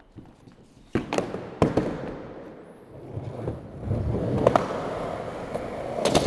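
Skateboard on hard pavement: two sharp board clacks about a second in, then the wheels rolling steadily from about three seconds on. A loud sharp snap near the end, as the skater pops the board for a blizzard kickflip attempt.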